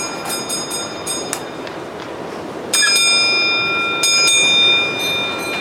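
A small bell struck several times in quick succession, then two louder ringing strikes about a second apart, over a steady background rumble.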